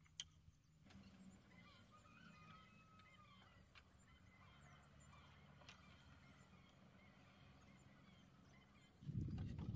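Quiet outdoor background with faint bird calls, a few short curving chirps in the first few seconds. Near the end a louder low, noisy sound starts abruptly.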